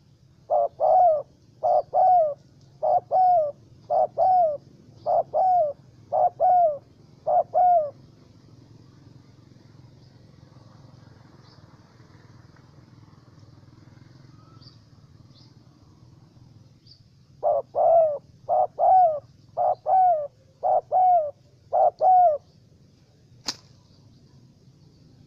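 Spotted dove cooing: a run of paired, falling coos repeated about once a second, then a pause, then a second run of the same coos. Faint high chirps sound throughout, and a single sharp click comes near the end.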